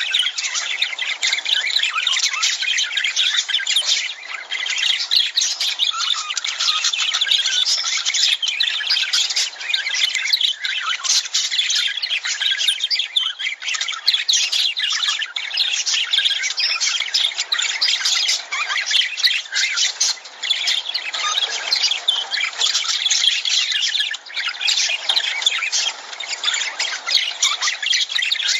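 A flock of lovebirds chattering: a dense, continuous stream of many overlapping short, high-pitched chirps and squawks.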